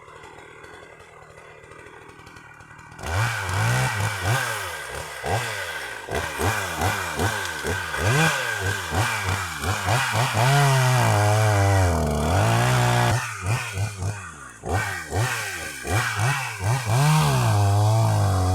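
Chainsaw engine starting about three seconds in, then revved up and down over and over, with a few stretches held steady at high speed.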